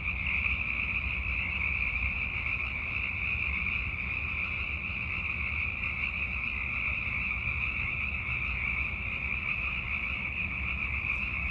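Dense chorus of Sierran chorus frogs (Pacific chorus frogs) calling continuously, hundreds of overlapping calls blending into one steady wall of sound: males calling to attract mates in the breeding season.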